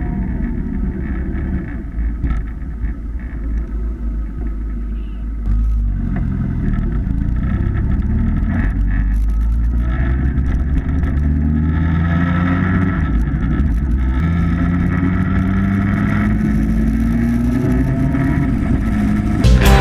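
Yamaha FJR1300's inline-four engine running under way, heard from on the bike as a steady low rumble. About halfway through it pulls harder, its note rising in pitch twice as it accelerates.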